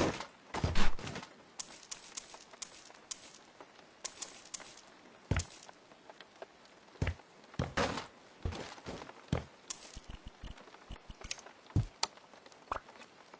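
Irregular knocks and taps of things being handled and set down, with bursts of light metallic clinking and jingling a couple of seconds in, again around four seconds and near ten seconds.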